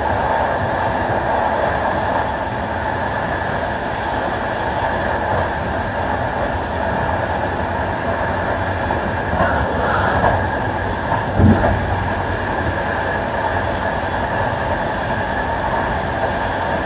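Steady running noise of a passenger train heard from its last coach, wheels rolling on the track. A few short knocks come about ten seconds in, the loudest at about eleven and a half seconds.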